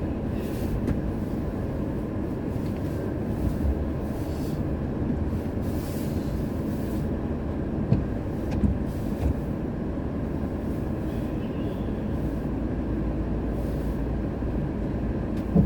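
Steady low rumble of a car ferry's engines and machinery, with a few sharp knocks and clanks, one about eight seconds in and another near the end.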